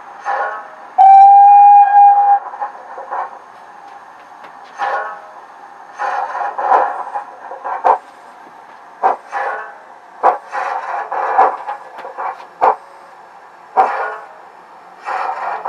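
Sound decoder in an O gauge model of Evening Star, a BR 9F steam locomotive, sounding one steam whistle blast about a second in, then steam exhaust chuffs at an uneven pace.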